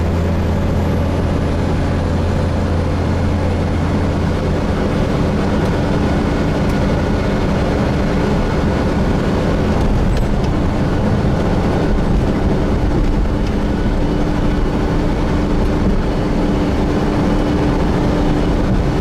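Gillig Phantom diesel transit bus with a Voith transmission, heard from inside the passenger cabin while running steadily. A low hum fades over the first few seconds, and a steady higher drivetrain hum sets in about a second in.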